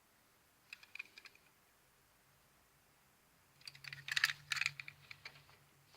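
Light clicks and clatter of small diecast metal HO scale model locomotives being handled on a table: a few faint ticks about a second in, then a busier run of clicking for a couple of seconds near the end.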